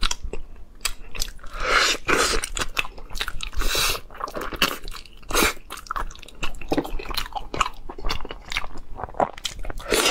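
Close-miked chewing and biting as stewed lamb meat is gnawed off the bone, a dense run of irregular short clicks, smacks and crunches.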